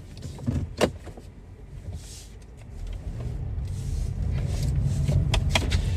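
Low car rumble that grows louder over the second half, with a single sharp knock about a second in.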